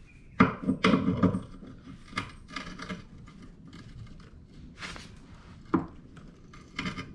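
A wrench knocking and scraping against a jet ski's drive shaft as it is forced, the shaft not turning: it is held fast by a frozen impeller. The knocks come in a cluster early on, then singly every second or so.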